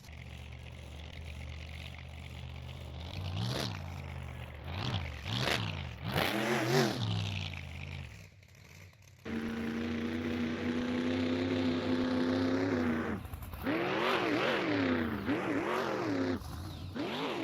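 Monster truck engine revving, its pitch rising and falling in quick blips, then held steady and high for a few seconds in the middle before several more quick revs near the end.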